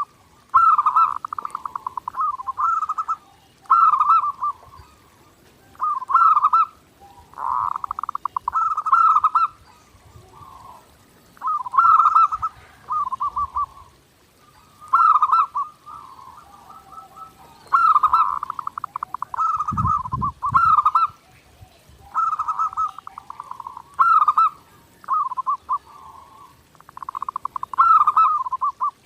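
Zebra dove (perkutut) cooing over and over: short, clear, trilling coo phrases, one every second or two.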